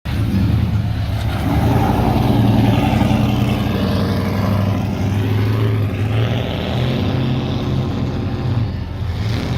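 A car's engine and exhaust running loudly as the car drives away, the engine note shifting slightly partway through.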